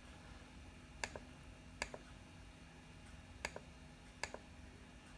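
A few scattered clicks of laptop keys, some in quick pairs, as details are typed slowly into a form, over a faint steady hum.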